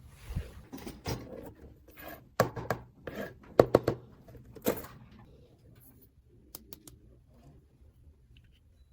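Plastic dollhouse toy pieces being handled and set down: a run of sharp clicks and light knocks, thinning out after about five seconds to a few faint clicks.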